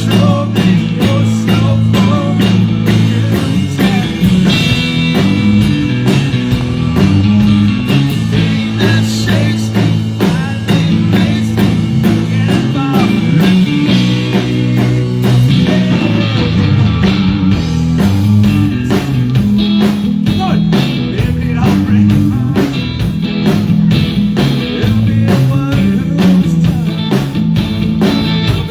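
Live band playing a country-rock song: electric guitar over a steady bass line and drum kit.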